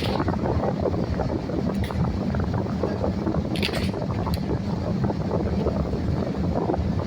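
CTA Purple Line rail car running along the track, heard on board: a steady rumble and rattle of wheels on rail. A few brief sharp high-pitched sounds cut through, the strongest about three and a half seconds in.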